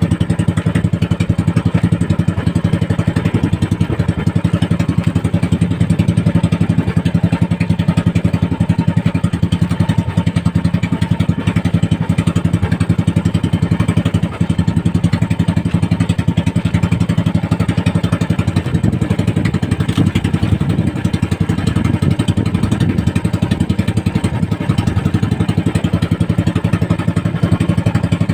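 Engine of a small motorized fishing boat running steadily at an even speed, with fast, regular firing pulses and no change in pitch.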